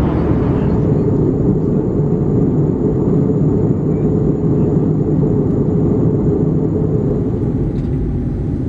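Airbus A320 cabin noise: a steady, loud low rush of engine and airflow noise, with a faint high whine above it.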